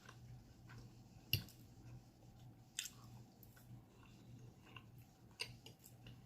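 Close-miked chewing of soft baked potato and shrimp in Alfredo sauce, with scattered wet mouth clicks and smacks; the loudest click comes a little over a second in, with others about three and five and a half seconds in.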